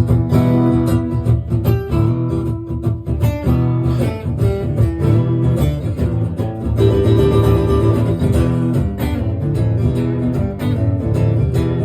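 Acoustic guitar strummed in a steady rhythm, playing a song's instrumental introduction with no singing.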